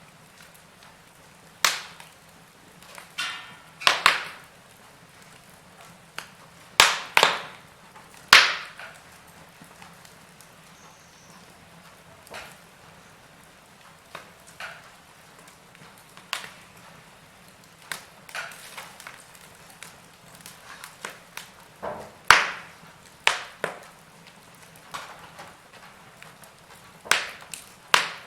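Fireplace fire crackling: irregular sharp pops and snaps, a few of them louder, over a soft steady hiss.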